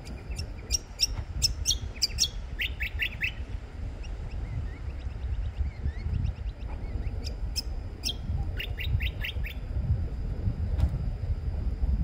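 A small honeyeater singing: two bouts of rapid, sharp, high chirping notes, the first in the opening three seconds and the second about seven seconds in, over a steady low rumble.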